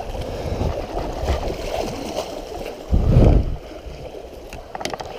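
A kayak being paddled hard through a river rapid: fast water rushing and gurgling around the boat, with paddle splashes. A loud low thump about three seconds in, then a few sharp clicks near the end.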